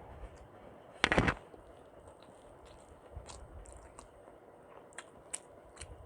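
Close-miked eating: one loud crunching bite about a second in, then a few faint wet mouth clicks and smacks as the food is chewed.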